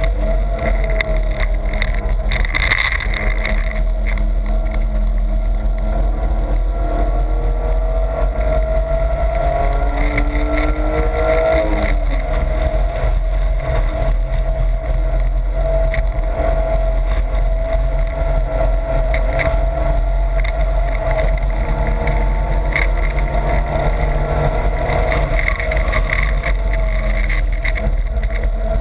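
BMW E30's engine heard from inside the cabin at track speed, over a steady low rumble of wind and road noise. The engine pitch climbs for several seconds and drops sharply about twelve seconds in, then holds fairly steady.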